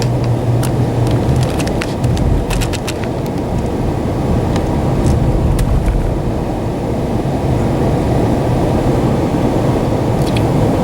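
Steady road noise inside the cab of a 2013 Dodge Ram 1500 pickup with a Hemi V8 driving on a snow-covered road: tyre rumble and a low engine hum, with scattered light clicks in the first few seconds and again near the end.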